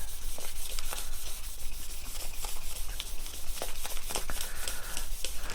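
Hand dry-sanding a guitar's painted metallic base coat with 1500-grit wet/dry sandpaper: light, quick back-and-forth strokes giving a scratchy hiss. This knocks down small dust bumps and scuffs the paint so the airbrush coat has something to grip.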